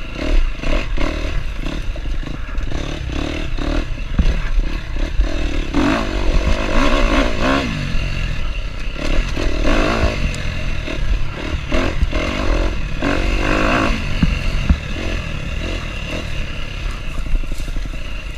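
KTM enduro dirt bike engine under way, revving up and falling back again and again as it is ridden, with clattering knocks from the bike over rough ground.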